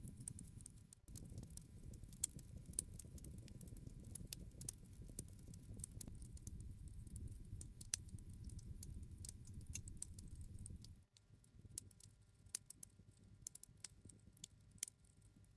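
Campfire crackling, with frequent sharp snaps and pops over a low rumble of the burning wood. About eleven seconds in, the low rumble drops away and only sparser crackles remain.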